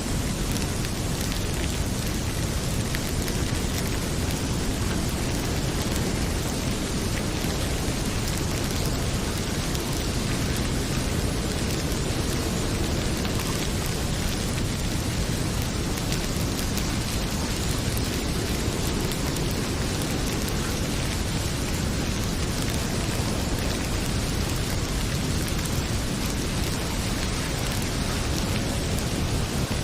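Heavy rain pouring steadily as an even hiss with a deep low rumble underneath, mixed with the faint crackle of a wood fire in a fireplace.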